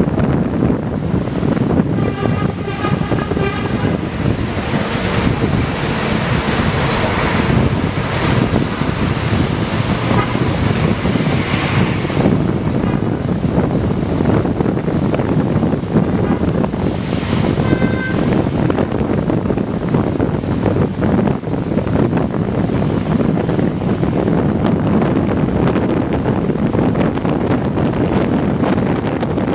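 Steady rumble and rush of a Scania K410iB double-decker coach travelling at speed: engine drone mixed with tyre and wind noise.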